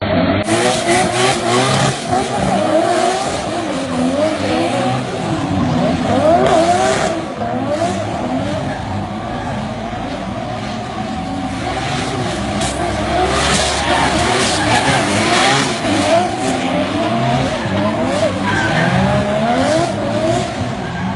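Several racing car engines revving up and down at once, their pitches rising and falling over one another.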